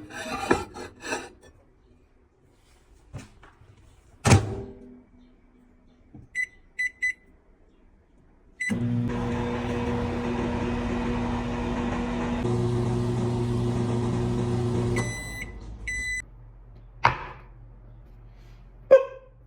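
Microwave oven being started and run: a thud, three keypad beeps and one more, then about six seconds of steady electrical hum that shifts partway through. It stops with a few end-of-cycle beeps, followed by a couple of knocks.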